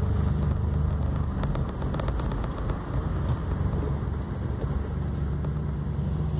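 Volkswagen up! TSI's small turbocharged three-cylinder engine running steadily under load as the car drives, a continuous low drone over road noise.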